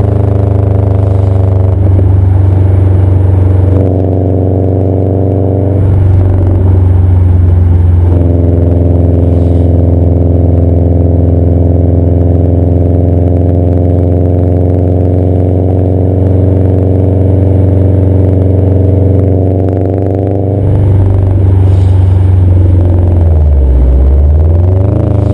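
2011 Subaru WRX's turbocharged flat-four engine running through a CNT cat-back exhaust, with a few small steps in engine pitch early on and steady revs for a long stretch. Near the end the revs drop and then climb again.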